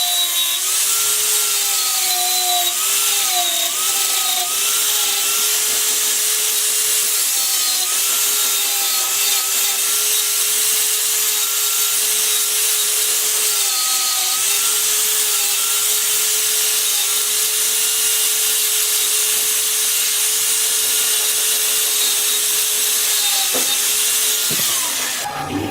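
Power tool cutting wood: a steady motor whine that sags briefly under load, over a continuous hissing cutting noise, stopping abruptly near the end.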